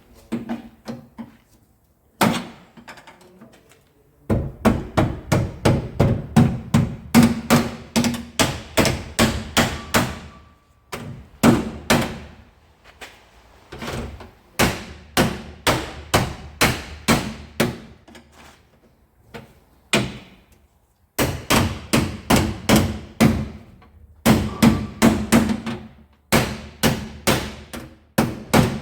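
Hammer blows on the steel rear quarter panel of a crashed Nissan Skyline R31, knocking out the crash damage. The strikes come in runs of quick, sharp blows, about three a second, broken by short pauses.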